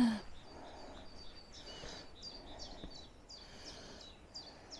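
A small bird singing: a run of short, high chirps, many sliding quickly downward, two or three a second, over faint outdoor background.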